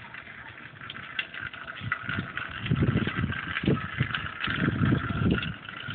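Hail pelting down in a dense, rapid patter of small clicks, with two spells of loud, low rumbling in the middle.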